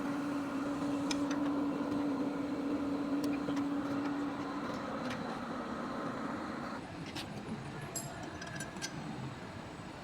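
A machine running with a steady hum over a noisy rush, winding down about five seconds in and stopping about seven seconds in, with scattered light clicks and knocks.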